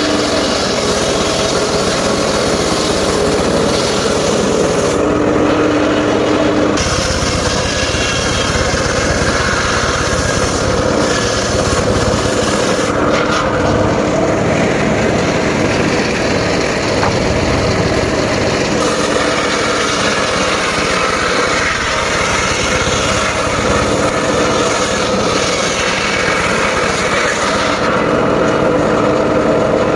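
Portable engine-driven circular sawmill running and cutting a log, an engine hum under the noise of the blade in the wood. The sound shifts several times as the blade's load changes.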